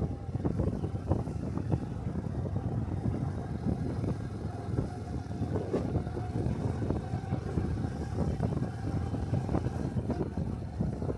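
A Honda 125 cc Cub motorcycle's single-cylinder engine running while riding, with wind buffeting the microphone.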